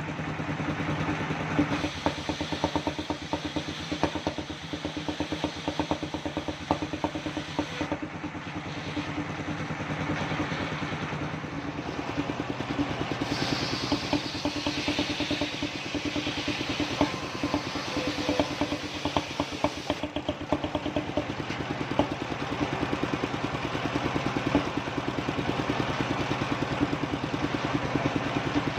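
Circular sawmill machine running steadily with a fast, even engine beat; from about 13 to 20 seconds in a brighter hiss rises over it.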